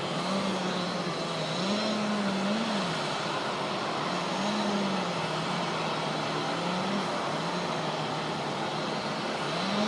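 Chainsaw running, its pitch stepping up and dropping back every second or two as it is revved and loaded in the cut, over a steady background hiss.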